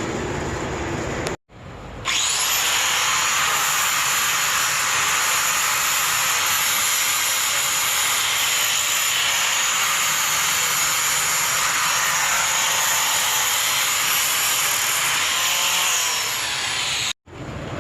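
Handheld electric grinder running steadily against metal with a high whine, cleaning rust off an exhaust flange, then winding down near the end.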